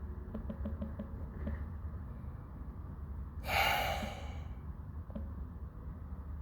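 A person's single short exhale or sigh about three and a half seconds in, over a steady low hum, with a few faint ticks shortly before.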